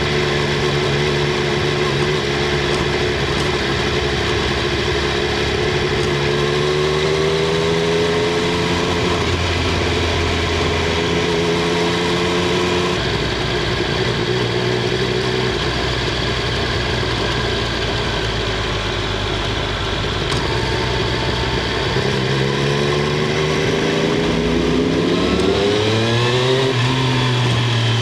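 Triumph Street Triple 765 R's inline three-cylinder engine and exhaust under way, heard from under the rear seat: a steady running note with small rises in revs, then for several seconds mid-way the engine note fades under road noise. About four-fifths through, the revs climb steeply under acceleration and drop near the end at a gear change.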